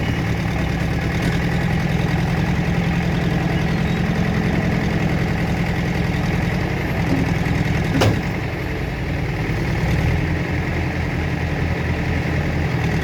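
Heavy diesel engine idling steadily. There is a single sharp click about eight seconds in.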